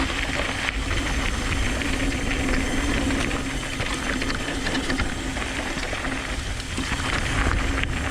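Downhill mountain bike rolling fast over a rough trail: tyres on dirt with the chain and frame rattling in a steady stream of small ticks, and wind rumbling on the microphone.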